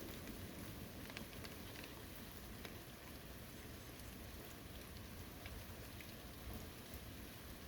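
Steady rain falling on a forest, an even hiss with scattered drops ticking close by.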